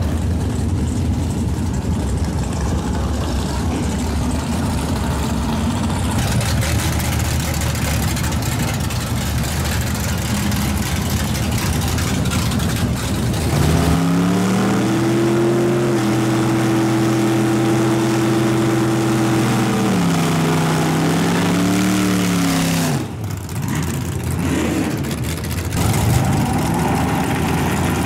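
Drag racing car engines running. About halfway in, one engine revs up and holds high revs for several seconds, its pitch shifting a few times before it cuts off abruptly, and another engine revs up near the end.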